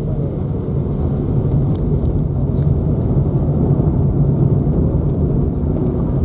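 Car engine and road noise while driving: a steady low drone that grows slightly louder through the middle.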